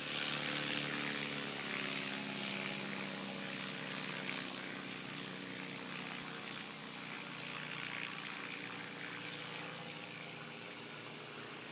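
Propeller plane's engine droning at a distance during aerobatics, its even hum slowly fading away.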